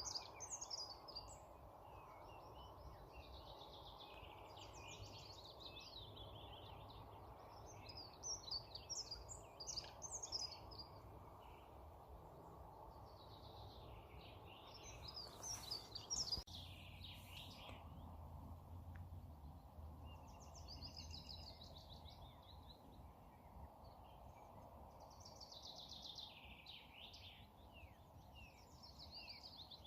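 Songbirds singing in the evening, short phrases of quick high notes every few seconds, over a steady faint background hush.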